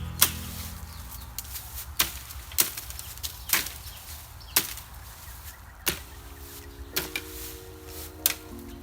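A blunt knife chopping at a dry bamboo pole: about eight sharp, separate strikes at irregular intervals of roughly a second.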